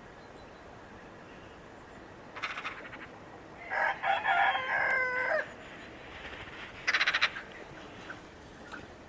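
A rooster crowing once, a multi-part cock-a-doodle-doo about a second and a half long that drops at its end, about four seconds in. Two short raspy calls come before and after it.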